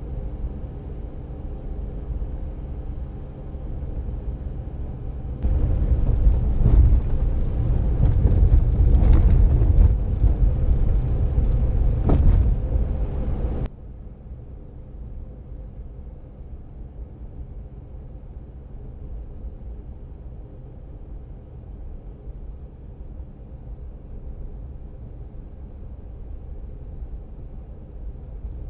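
Suzuki Every DA64V van's 660 cc three-cylinder engine and road noise on a test drive on freshly replaced front stabilizer bushings, running steadily. About five seconds in the road and tyre noise gets much louder and rougher for several seconds, then cuts off abruptly to a quieter, steady drive.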